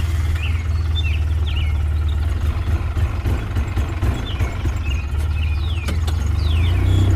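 The small motor of a DIY mini tractor-driven paddy thresher running steadily with a low, fluttering hum, while birds chirp.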